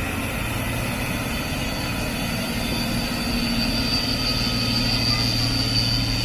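Heavy truck engine running steadily, getting somewhat louder about three seconds in, with a steady high whine over it.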